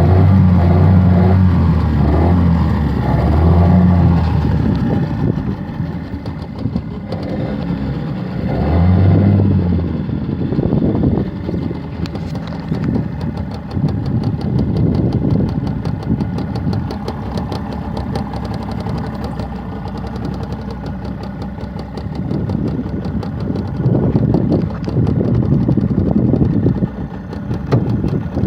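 Nissan NS9.9B2 9.9 hp two-stroke outboard motor running, its note changing as the engine speed and load shift, with a strong low hum near the start and again around nine seconds.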